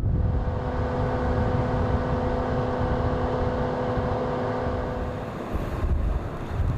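A motor vehicle running at a steady pitch over a loud hiss, its steady tone stopping about five seconds in.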